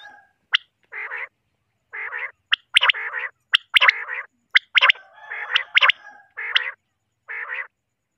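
Common quail calling over and over, several birds: short, sharp high notes mixed with raspy, burbling phrases. The calls come in quick bursts with brief silent gaps between them.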